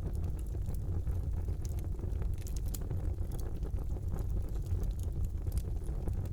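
Fire burning in a fireplace: a steady low rumble of the flames with irregular crackles and small pops scattered throughout.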